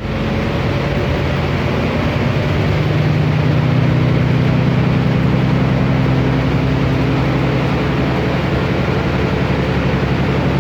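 Cummins ISB Euro 6 turbo diesel engine of an Otokar Kent LF city bus running with the bus under way: a steady drone that rises slightly in pitch over the first few seconds and then holds.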